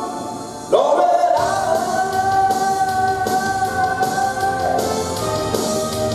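A singer performing with a rock band: the bass and drums drop out briefly at the start, then the voice slides up into one long held note about a second in as the full band comes back with guitar and drums.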